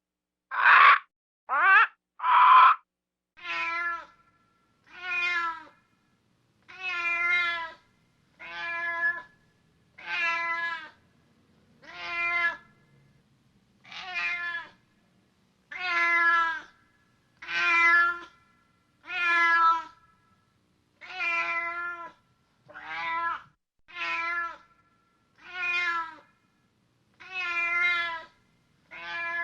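A domestic cat meowing over and over, about one meow every second and a half, each meow much like the last. In the first few seconds, before the meowing, there are four shorter, louder calls of a different kind.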